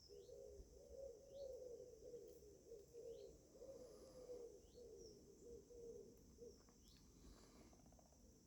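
Faint outdoor ambience: a steady high insect drone, with a short bird chirp repeated about once a second, and a low wavering warble that fades out a little after the middle.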